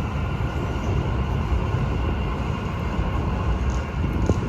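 Metro train running, a steady rumble with a faint high whine.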